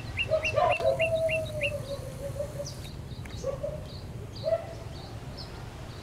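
Birds calling in trees: a quick run of about seven short rising chirps, roughly four a second, over a lower drawn-out note in the first two seconds. A few scattered chirps and short lower notes follow.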